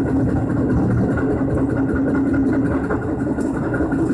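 Tobu 10030 series electric train running along the track, heard from inside the front car: a steady rumble with a constant hum.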